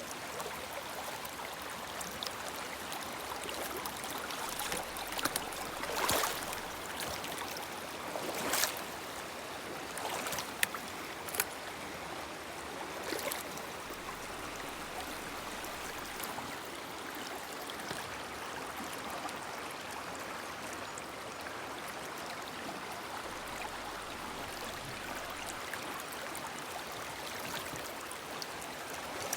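Woodland river flowing steadily: an even rushing of water. A few brief sharp sounds stand out above it in the first half.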